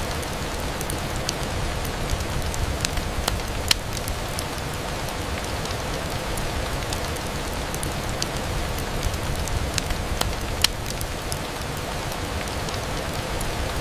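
Steady rain on window glass, an even hiss over a low rumble, with scattered sharp ticks of drops. The two loudest ticks fall about a quarter of the way in and again about three quarters through.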